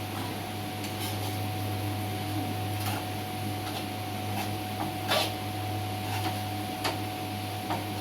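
A spoon scraping and clinking in a cooking pan a handful of times, the strongest stroke about five seconds in, over a steady low hum.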